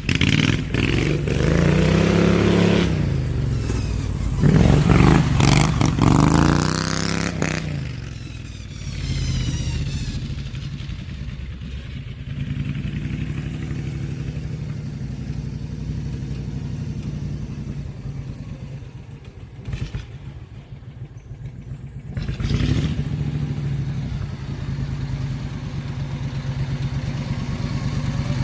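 The hot-rod riding mower's slightly modified Briggs & Stratton V-twin revs up and drops back several times in the first seven seconds or so, then runs steadier and lower, easing off and picking up again about two-thirds of the way through.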